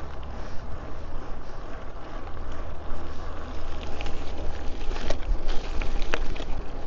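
Wind buffeting the microphone and tyre rumble from a cyclocross bike being ridden at pace. Scattered sharp clicks and ticks start about four seconds in.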